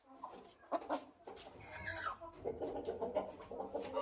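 Shamo chickens calling: a few short clucks, then a longer pitched call from about halfway through.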